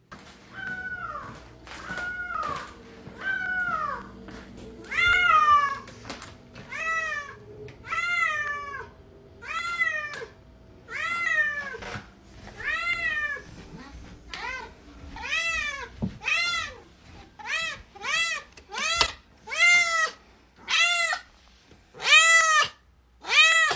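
A domestic cat meowing over and over, about twenty calls, each rising and then falling in pitch. The meows come quicker and louder toward the end.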